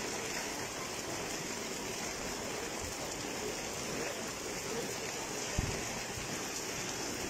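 Steady rain falling on a wet paved street, an even hiss of drops. A single low thump about five and a half seconds in.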